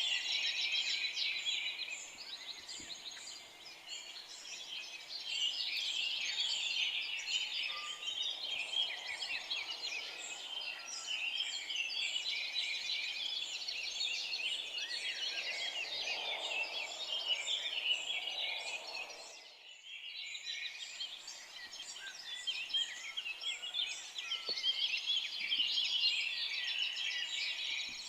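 A dense chorus of many small forest birds chirping and trilling over one another, with a brief dropout about two-thirds of the way through.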